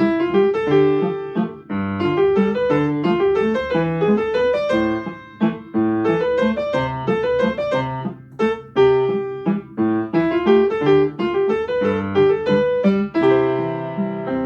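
Solo piano playing a flowing melody over rolling broken-chord accompaniment, then settling on a final chord near the end that is held and rings out, fading.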